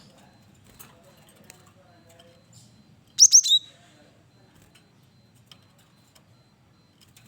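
Cinereous tit (gelatik batu) giving one short loud call about three seconds in: three quick, sharp down-slurred notes and a lower closing note. Faint scattered chirps sit under it.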